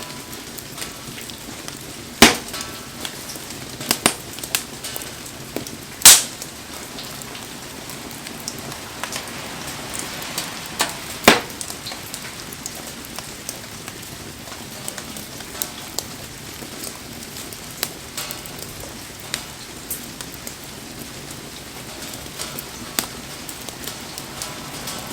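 Wood campfire burning in steady rain: an even hiss of rain with sharp crackles and pops from the fire, the loudest cracks about two, six and eleven seconds in.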